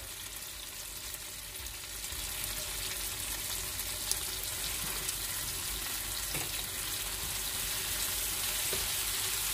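Chicken pieces sizzling as they stir-fry in oil in a pan, the sizzle growing a little louder after a couple of seconds. A wooden spatula stirs them, with a few light knocks.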